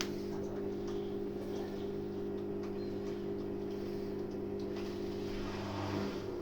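Samsung washing machine running with a steady electrical hum and faint ticks and knocks; part of the hum drops away near the end.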